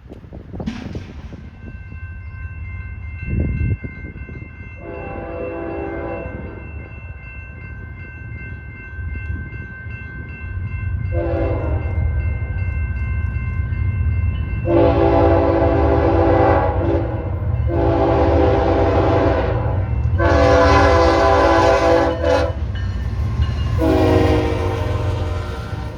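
Locomotive air horn sounding a string of six blasts as a train approaches, the last four close together, over the low rumble of the train growing louder.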